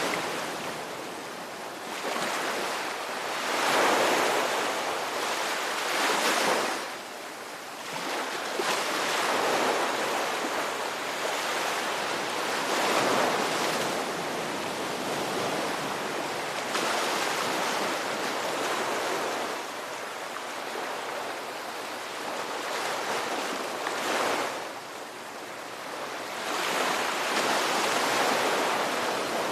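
Ocean waves breaking and washing on shore, a continuous hiss of surf that swells and ebbs every few seconds.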